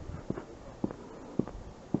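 Footsteps walking at a steady pace, about two steps a second, each step a short knock.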